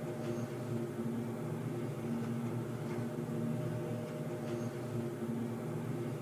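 Underground ambience sound effect: a steady low mechanical hum with a tone that swells about once a second, and a few faint ticks.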